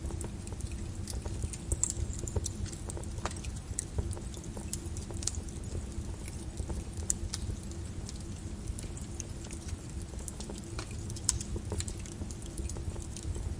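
Lava crackling, with irregular sharp clicks and pops scattered over a steady low rumble.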